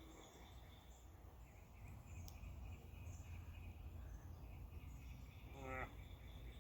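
Quiet outdoor ambience: a steady low rumble of wind on the microphone under faint high chirping, with a brief click about two seconds in and a short rising call near the end.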